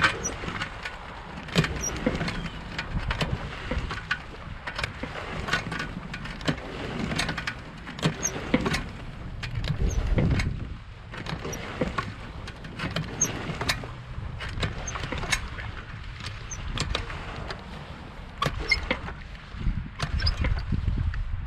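Pump-out hose sucking waste out of a boat's marine toilet holding tank, with irregular clicks and knocks over a low rumble and a heavier surge about halfway through.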